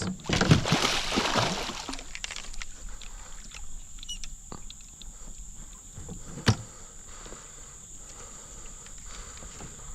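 Rustling and knocking of gear being handled in a kayak, busiest in the first second and a half, with one sharp knock about six and a half seconds in, over a steady high drone of insects.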